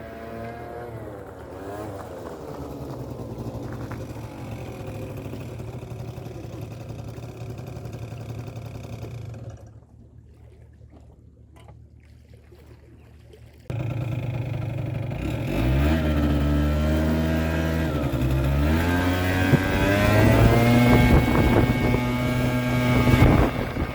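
Kymco Super Fever ZX 50cc two-stroke scooter engine running and revving, its pitch rising and falling. It drops away for a few seconds about ten seconds in. It then comes back suddenly louder and climbs in pitch as it accelerates, holding high revs near the end.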